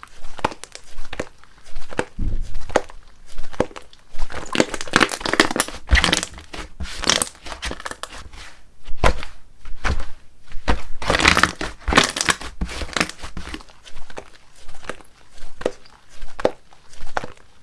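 Slime being squished, stretched and pressed by hand, with irregular crackling, popping clicks and soft squelches throughout.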